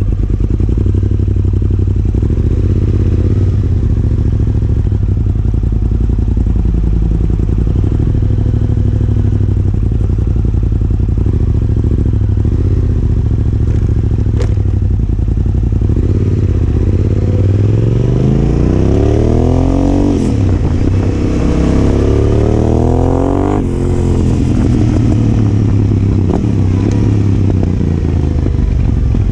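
Yamaha Ténéré 700's parallel-twin engine through a Yoshimura R-12 exhaust, running steadily, then revving up a little past halfway. Its note climbs, drops sharply, climbs again and falls back near the end.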